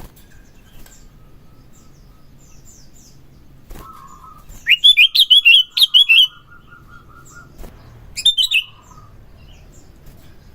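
Sooty-headed bulbul (kutilang) singing. It gives a loud run of quick, repeated chirping notes about five seconds in, lasting a second and a half, then a shorter run about three seconds later, with faint chirps before and between.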